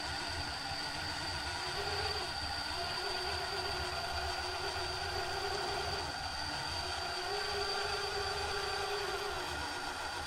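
RC rock crawler's electric motor and geared drivetrain whining under throttle as it climbs a steep ramp, the pitch wavering up and down with the throttle.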